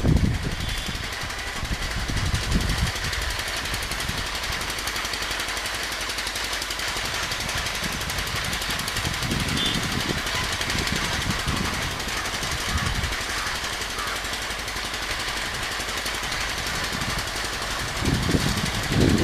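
Humsafar Express passenger train rolling past at speed: a steady rumble and hiss of wheels on rails with a rapid rattling clatter.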